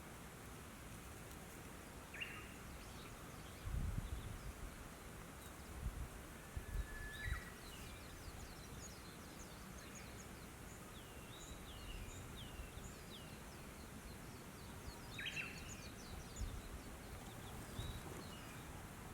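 Wild birds calling: scattered short chirps, one brief whistled note, and a run of quick, high, falling chirps in the middle, over faint outdoor background noise. A few low bumps come through now and then.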